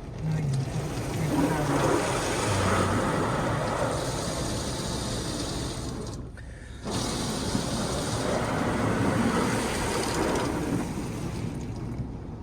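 High-pressure water jets of a touchless automatic car wash spraying over the car, heard from inside the cabin as a steady rushing hiss. It comes in two passes, cutting off abruptly about six seconds in and starting again under a second later, then fading near the end.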